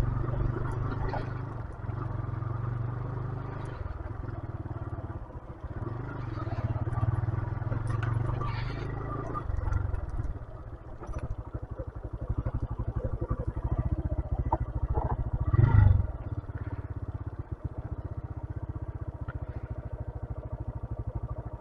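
A 125cc motorcycle's engine running steadily at low revs on a rough track, its individual firing pulses plainly audible in the second half. A loud thump comes about 16 seconds in.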